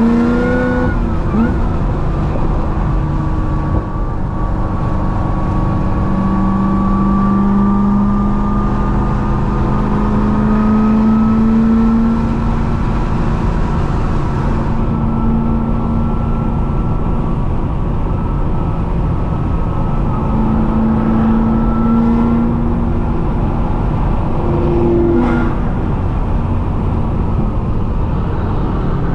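Supercharged 6.2 L V8 of a C6 Corvette ZR1 running a Kong 2650 blower, cruising at highway speed: a steady engine drone whose pitch rises and falls only slightly and slowly.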